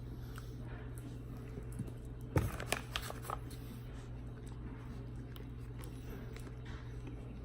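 A steady low hum, with a short run of sharp clicks and crunches about two and a half seconds in as the sauced chicken sandwich is handled and bitten into.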